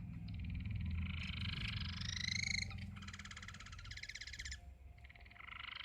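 Bird calling loudly and harshly: a rasping, buzzy call that rises in pitch, then a rattling call, then the rising call again near the end.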